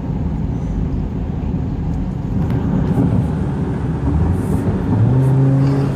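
Road and engine noise of a car driving at speed: a steady low rumble, with a steady low hum joining in about five seconds in.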